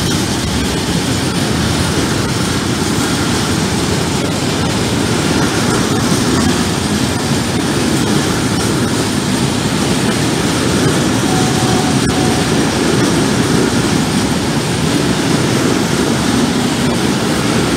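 Freight train of covered hopper wagons rolling past close by at steady speed: a continuous rumble and rattle of steel wheels on rail.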